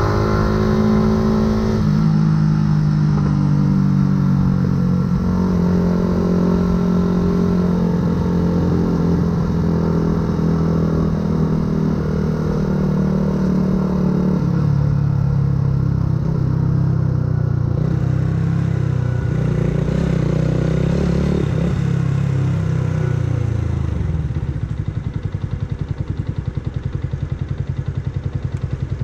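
2008 Yamaha YZF-R125's single-cylinder four-stroke engine through a full aftermarket exhaust, under way: the revs climb, drop at a gear change about two seconds in, then hold and waver. Near the end the revs fall away and it settles to a lumpy, pulsing idle.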